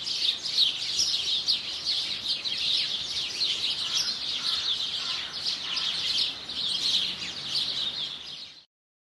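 Many small songbirds chirping and twittering at once in a dense, overlapping chatter. It cuts off suddenly near the end.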